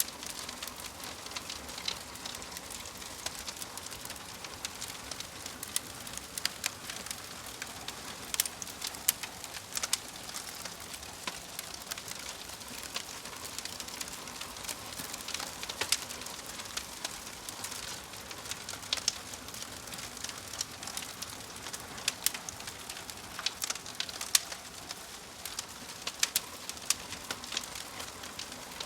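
Wood fire crackling, with frequent sharp pops and snaps over a steady hiss, and a bird calling in the background.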